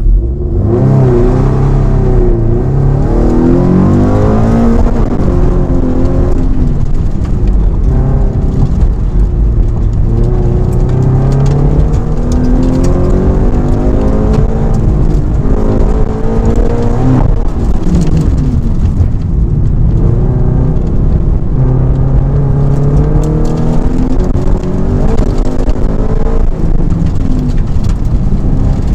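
2017 Subaru BRZ's 2.0-litre flat-four engine with an aftermarket exhaust header, revving up under acceleration and dropping back several times, as when pulling through the gears.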